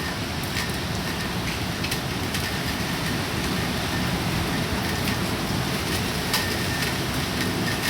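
Heavy typhoon rain: a steady rush with scattered sharp ticks of drops striking nearby surfaces.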